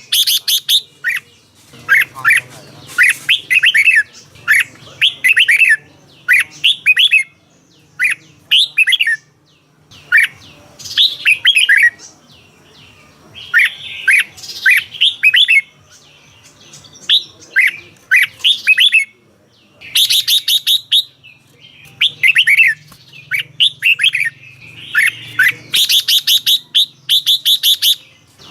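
Red-whiskered bulbul singing. Short phrases of quick, liquid whistled notes come every second or two with brief pauses between them, and harsher, scratchier notes mix in about twenty seconds in and again near the end.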